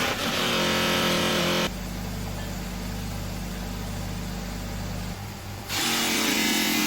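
Small two-stroke moped engine running steadily, heard in short clips that cut abruptly from one to the next, the middle one a lower, steadier idle.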